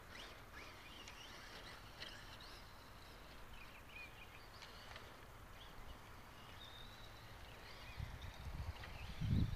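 Birds chirping faintly over steady outdoor background noise, with a few low rumbles near the end.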